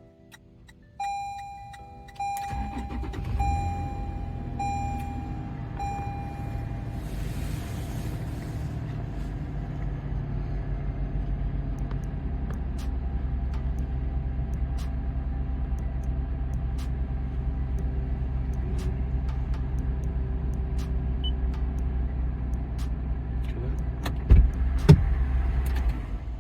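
A 2020 Toyota 4Runner's 4.0 L V6 remote-starting: a beep repeats about five times, then the engine cranks and catches about two seconds in and settles into a steady idle. Two loud knocks come near the end.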